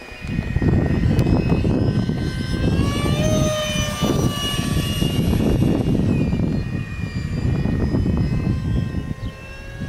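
Whine of a 64 mm electric ducted fan on a Freewing F-35 foam RC jet in flight, rising in pitch about three seconds in and dropping again about six seconds in as the jet passes. Heavy wind rumble on the microphone runs underneath and is the loudest part.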